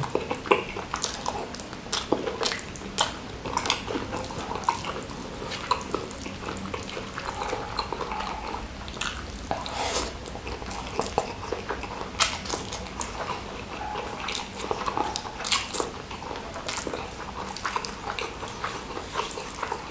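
Close-miked chewing and wet mouth sounds: irregular smacks, clicks and slurps of someone eating rice with salted squid sambal.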